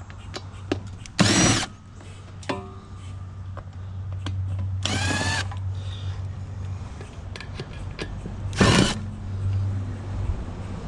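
Cordless screw gun backing screws out of the bottom of a chair in three short bursts, its motor whine sweeping up and down in pitch each time. Small clicks and a steady low hum run underneath.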